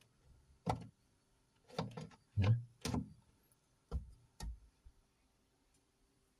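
A series of about six short knocks and clunks spread over a few seconds, like switches and panel parts being handled.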